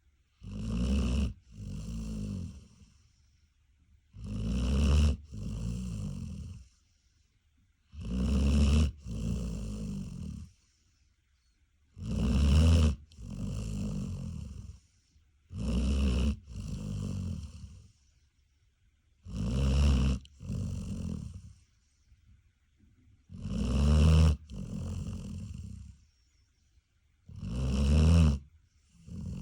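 Large dog snoring in a steady rhythm, eight breaths about four seconds apart, each a loud snore followed at once by a softer, longer one.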